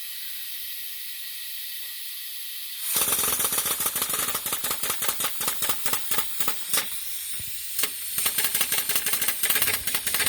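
Steam hissing steadily from a Walter Kolb gauge G live-steam locomotive model, then about three seconds in its steam-driven feed pump starts up with a rapid, even run of ticking strokes, easing briefly near the eighth second before running on. The pump is feeding water into the boiler.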